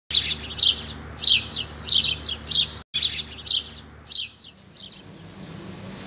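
Bird chirping: quick groups of high chirps repeating about every half second, with a brief break near the middle, dying away about four and a half seconds in.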